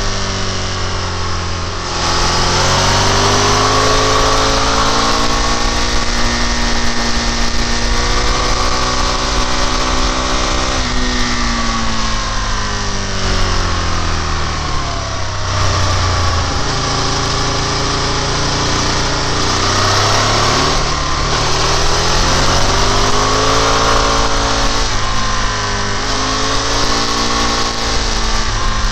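Sport motorcycle engine under way, its pitch climbing and falling several times as the rider accelerates and eases off.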